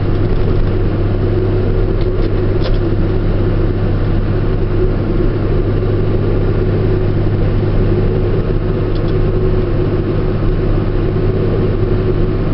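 Steady engine and road drone inside a truck's cab while driving, a deep even hum with a constant mid tone, and a couple of faint ticks about two seconds in and again near nine seconds.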